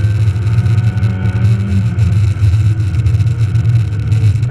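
Rally car's engine running steadily under load, heard from inside the cabin.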